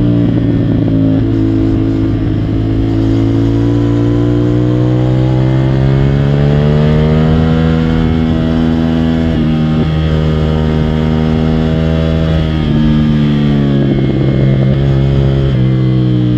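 CFMOTO 450SR's parallel-twin engine running hard under way, its pitch climbing steadily as the bike accelerates and then dropping sharply a few times as the revs fall or gears change.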